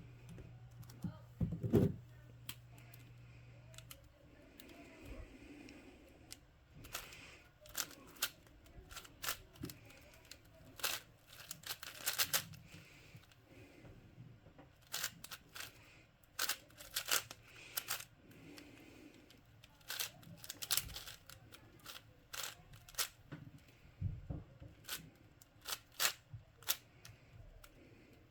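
Plastic twisty puzzle cube being turned by hand: irregular runs of sharp clicks and clacks as the layers are twisted. A low hum runs under the first four seconds and then stops.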